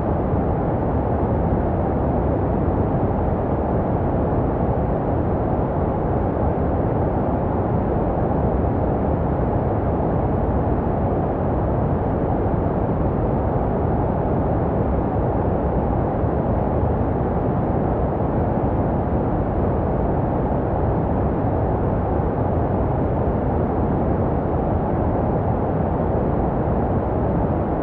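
Continuous filtered white noise, steady and unchanging, deep and muffled with little treble. It is made for soothing infants and meant to resemble the sounds heard inside the womb.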